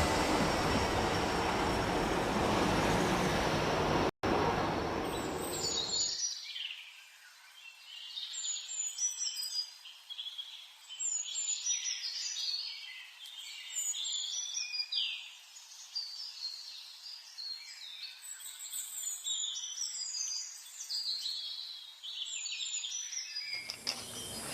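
A steady rushing noise, briefly broken about four seconds in, cuts off about six seconds in. It gives way to small birds chirping and twittering: many short, high calls, some in quick runs, overlapping through the rest, until the rushing noise returns just before the end.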